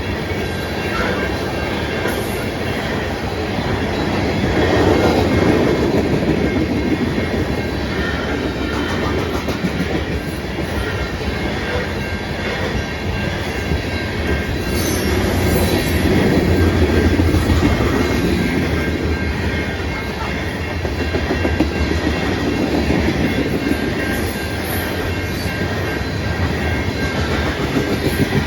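Norfolk Southern coal train's freight cars rolling past, a steady rumble of wheels on rail with a clickety-clack over the rail joints, swelling and easing slightly as the cars go by.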